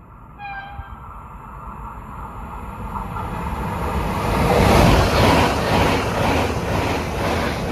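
Italo EVO high-speed electric train passing through a station without stopping: a rushing noise that builds as it approaches and peaks as the cars sweep close past, with a quick rhythmic clatter from the wheels. A brief high tone sounds about half a second in.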